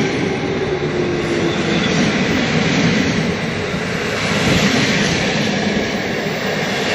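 Passenger carriages of an electric-hauled train rolling past on the rails as the train pulls away from the station, a steady rumble with a hum that fades out about two seconds in.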